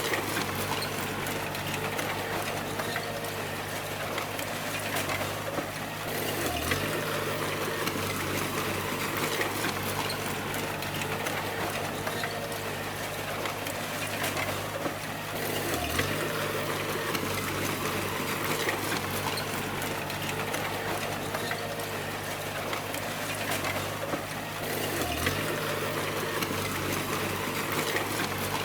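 A bulldozer's diesel engine running steadily over a broad hiss of machine noise. Its note briefly drops and recovers three times, about every nine seconds.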